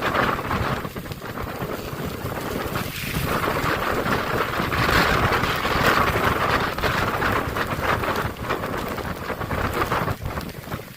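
Hurricane wind buffeting the microphone together with driving rain: a loud, gusty rushing noise that swells around the middle.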